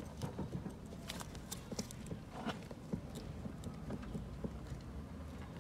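Steering intermediate shaft being worked loose and pulled down off the steering gearbox: scattered light clicks and knocks from the joint and hand tools.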